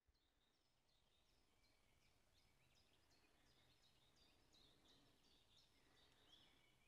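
Faint birdsong: many short, high chirps that fall in pitch, repeating throughout, over a faint low steady hum.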